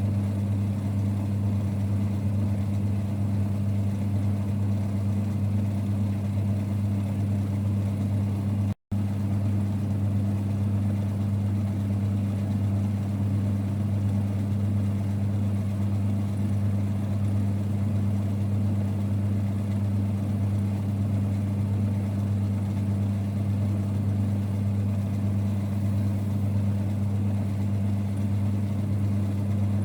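1946 Boxford lathe running at a steady speed, a low, even rumble with a constant hum. The sound drops out for an instant about nine seconds in.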